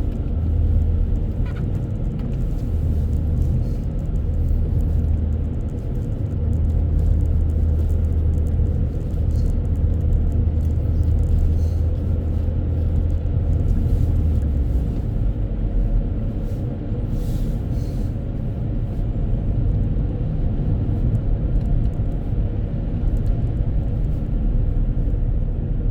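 Steady low rumble of a car driving, road and engine noise heard from inside the cabin. The low engine hum drops about fifteen seconds in.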